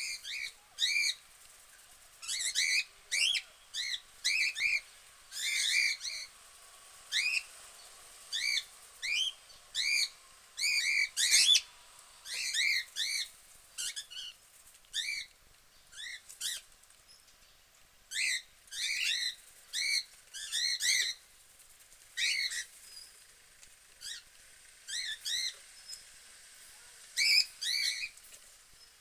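Budgerigars chirping and warbling, many short rising-and-falling calls in quick clusters with brief pauses.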